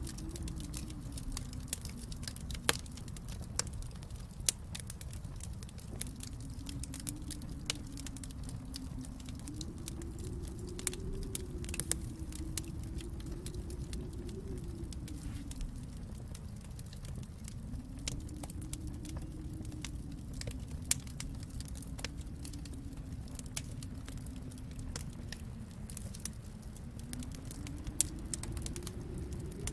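Wood fire in a fireplace crackling, with irregular sharp snaps and a few louder pops, over a low steady rumble.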